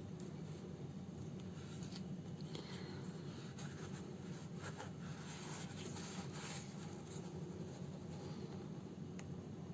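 Faint scratching and rustling of hand-sewing: a needle and thread drawn through the fabric of a house slipper and the slipper being handled, over a steady low hum.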